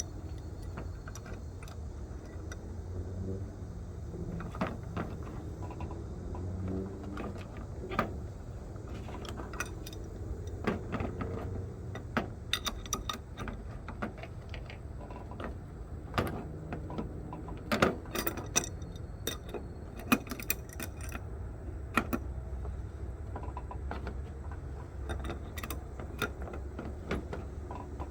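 Metal tools and threaded plumbing fittings being handled and tightened with a wrench: scattered sharp clicks and clinks at irregular intervals over a low steady hum.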